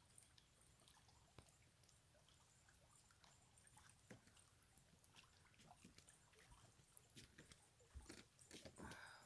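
Near silence with faint scattered clicks and light rustling, which grow busier and a little louder near the end.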